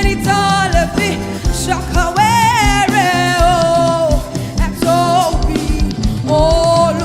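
A gospel praise song: a solo voice singing a held, wavering melody over a band with drums and bass keeping a steady beat.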